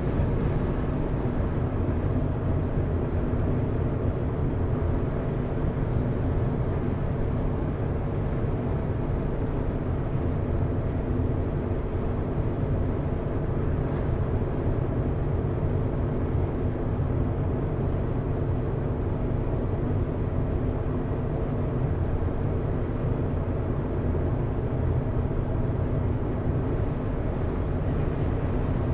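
A car driving at a steady speed: an even engine hum at a constant pitch over low tyre and road rumble.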